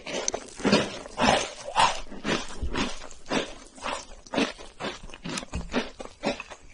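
Chewing of chocolate cake, with irregular moist mouth clicks and soft crunches, about two or three a second.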